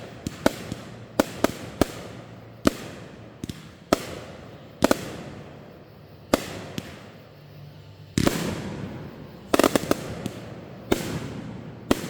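Fireworks going off: a string of sharp bangs at irregular intervals, with a denser cluster of bangs and crackle about eight to ten seconds in.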